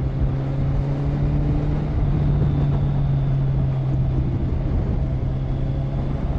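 Motorcycle engine running at a steady cruising speed, its note rising slightly about two seconds in, with a low wind rumble on the rider's microphone.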